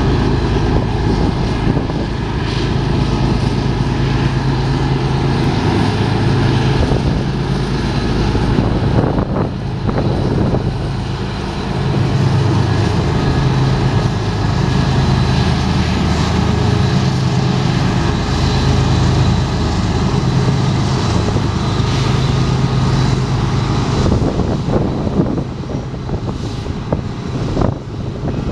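Union Pacific diesel locomotives pass close by with their engines running in a loud, steady, pulsing drone. About 25 seconds in, the engine sound drops away and the clicking of the double-stack container cars' wheels on the rail joins in.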